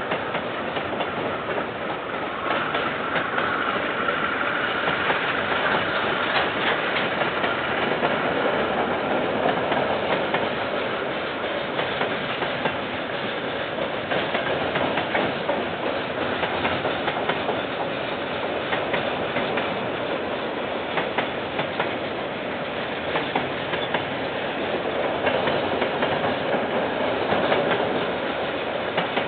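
KiwiRail train running past, a continuous rumble of the wagons with wheels clicking over the rail joints, heard through a security camera's microphone.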